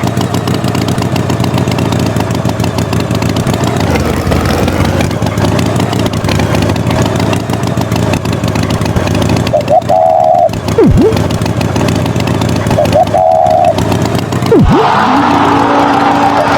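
Tractor engine running steadily, with three short high-pitched tones about ten, thirteen and sixteen seconds in and a couple of quick sliding sounds between them.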